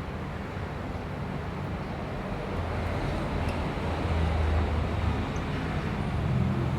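Steady road-traffic rumble that swells louder from about halfway through, as if a vehicle passes. A few faint, brief high chirps from lovebirds sound over it.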